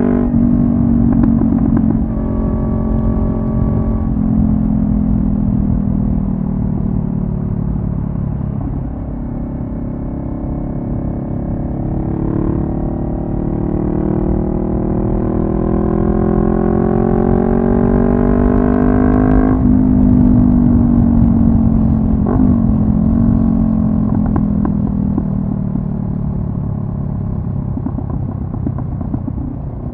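2014 Honda CB500F's parallel-twin engine through a Delkevic carbon-fibre slip-on exhaust while riding. Its revs climb steadily for about ten seconds, drop suddenly about two-thirds of the way through, then fall slowly.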